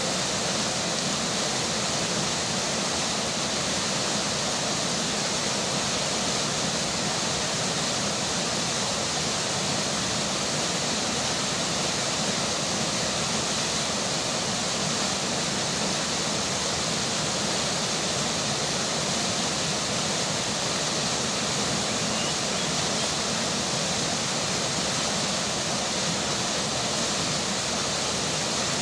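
Steady rush of a flowing river with rain falling, an even hiss with no breaks or changes.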